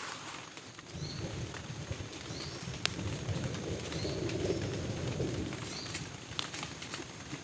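Steady rain hiss with a low rumble that swells from about a second in and fades after about five seconds. A short, high, rising chirp repeats every second or two, and a few sharp drip-like clicks sound.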